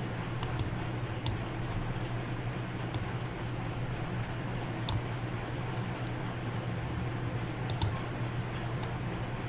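A few isolated sharp clicks from a computer mouse or keyboard, about six spread over the stretch with a quick pair near the end. Under them runs a steady low hum of room noise.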